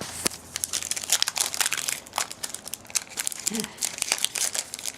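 The foil wrapper of a trading-card pack crinkling as it is handled and opened: a dense run of crackles.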